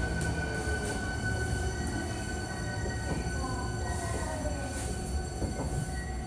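Hankyu 1300 series electric train running, heard from inside the car: a steady rumble of wheels on rail with several thin steady whining tones over it, and a faint sliding tone about three seconds in.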